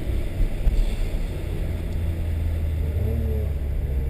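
Honda S2000's four-cylinder engine and road noise heard from inside the cabin, a steady low rumble. Near the end the engine note starts to rise as it revs up.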